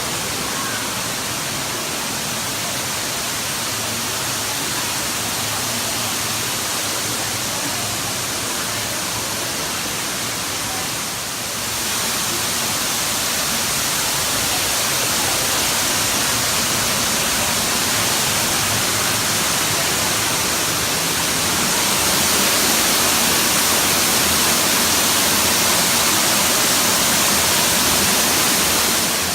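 Waterfall, a steady rush of falling water. It grows a little louder about twelve seconds in and again a little past twenty seconds.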